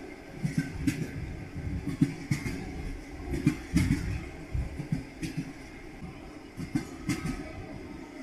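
Railway carriage wheels clacking over rail joints, with irregular sharp knocks over a steady low rumble.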